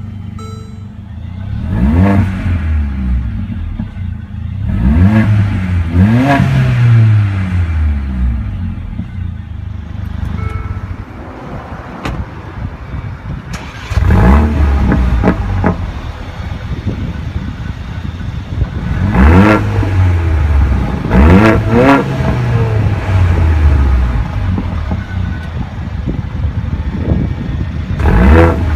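Car engine revved repeatedly from idle, about seven rising-and-falling revs with pauses between them, the longest lull in the middle.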